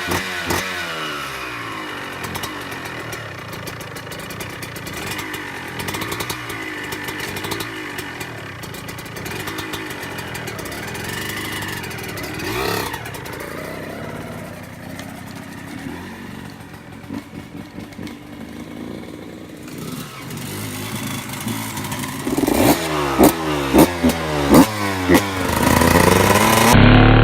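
Suzuki RM 125's two-stroke single-cylinder dirt bike engine running, the revs rising and falling with the throttle, with a run of quick, loud throttle blips near the end.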